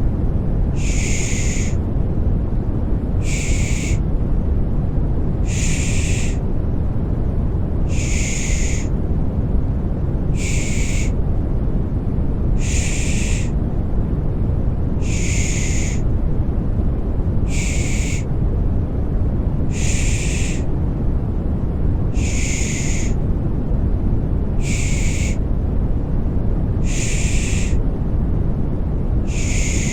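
A rhythmic 'shh' shushing sound used to lull babies to sleep, a brief hiss repeating about every two and a half seconds, over steady low-pitched noise.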